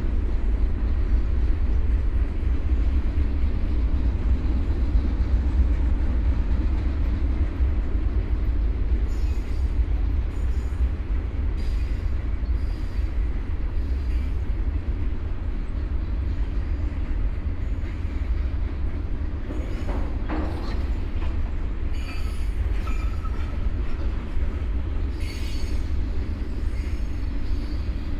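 Train running with a steady low rumble. Through the second half come short high-pitched screeches and scrapes of metal.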